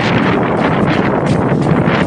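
Wind buffeting the microphone of a body-carried camera on a run: a loud, steady rushing noise.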